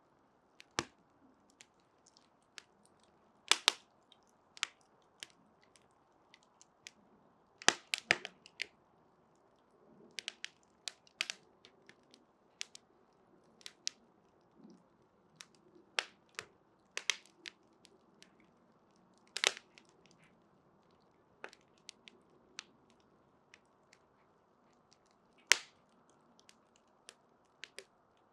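Burning wood crackling: irregular sharp pops and snaps, a few much louder than the rest, over a soft steady hiss of the flame.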